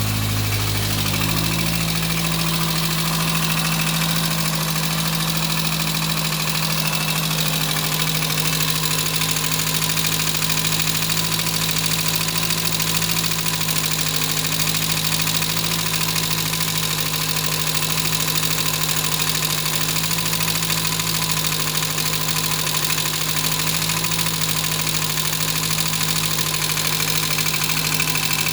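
Talbot Horizon 1.1's Poissy four-cylinder engine running at a steady speed; its pitch steps up slightly about a second in, then holds even.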